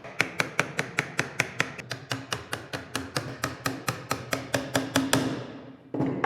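A hand tool tapping on wood: quick, evenly spaced knocks, about five a second, stopping about five seconds in.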